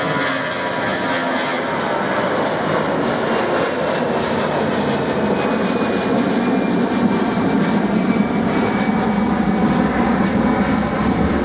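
Jet airliner passing close overhead: loud, steady engine roar with a thin whine that slowly falls in pitch as it goes by, and a deeper rumble building in the second half.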